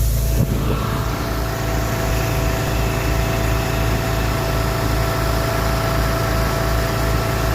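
A steady hiss with a low rumble gives way suddenly, about half a second in, to an engine running steadily at an even pitch with a held hum.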